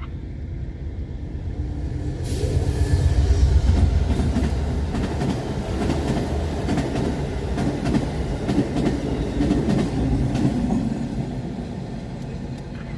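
Amtrak passenger train passing close by: a low rumble builds to its loudest about three to four seconds in, then runs on with the clatter of wheels clicking over the rail joints before easing off near the end.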